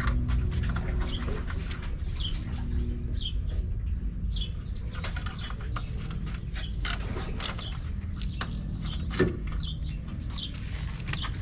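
A bird chirping over and over, short high calls about once a second, over a steady low hum.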